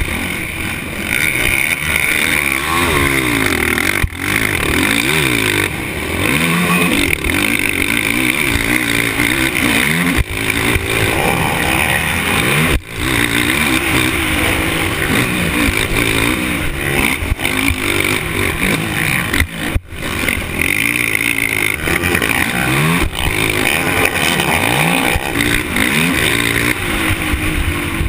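Off-road racing engine under hard riding, revving up and down over and over as the throttle is worked and gears change, with a few brief sharp drops in level.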